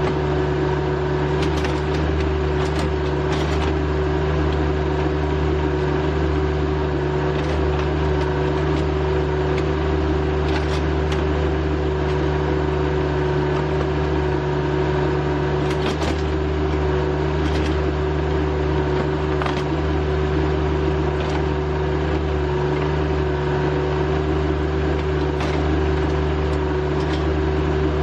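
RK25 subcompact tractor's diesel engine running steadily at an even speed, with a few short clicks or knocks scattered through it.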